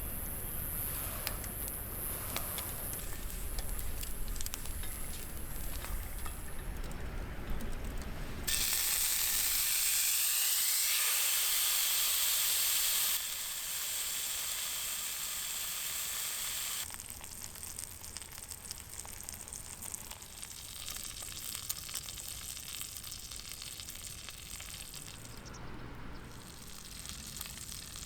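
Beef steak sizzling over a campfire, in several cut-together stretches that change abruptly. The loudest, about a third of the way in, is a bright steady hiss lasting a few seconds.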